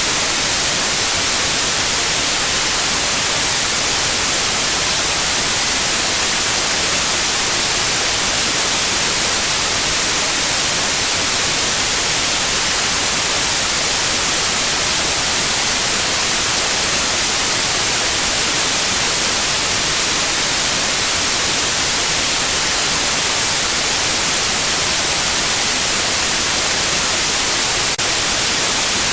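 Steady synthetic white noise with a constant high-pitched pure tone at about 9645 Hz, a tinnitus-matching tone used for sound therapy. Both drop out for a split second about twelve seconds in.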